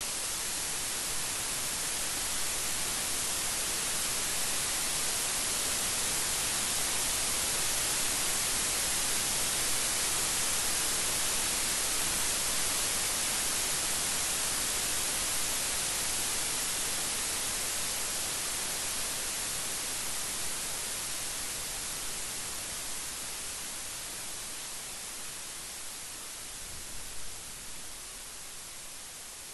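Steady rain falling as an even hiss, easing a little over the last several seconds; no thunder.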